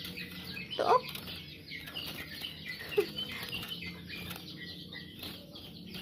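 Birds chirping in many short, quick calls, over and over.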